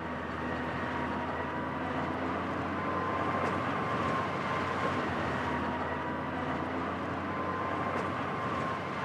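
A vehicle driving, a steady engine and road noise with a faint steady whine that slowly grows louder.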